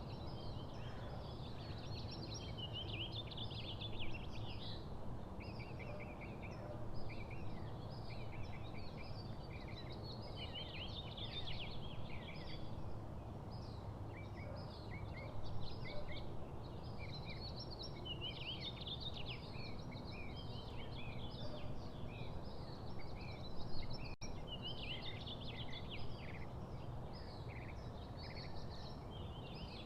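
Several small birds chirping in quick, overlapping short calls, over a steady low background rumble.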